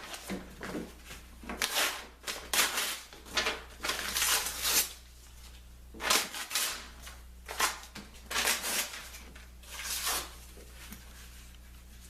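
Irregular rustling and scraping handling noises, about ten short bursts that thin out near the end, over a steady low hum.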